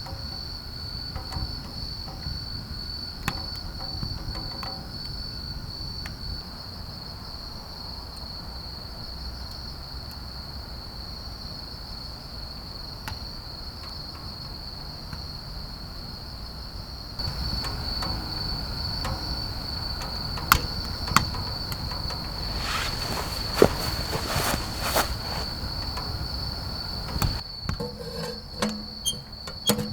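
Crickets chirring in a steady high-pitched trill, with a few sharp clicks and cracks in the second half.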